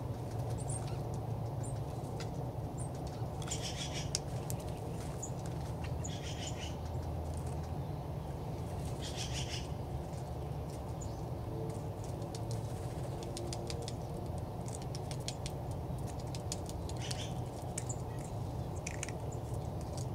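Five short raspy bird calls spaced a few seconds apart, with scattered light ticks and clicks, over a steady low rumble.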